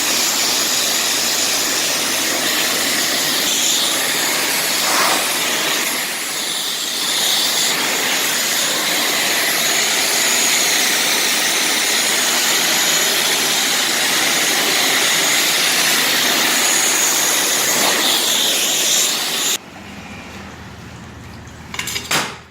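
High-pressure rinse wand at a self-service car wash spraying plain water onto a car, a loud, steady hiss of spray that stops abruptly near the end.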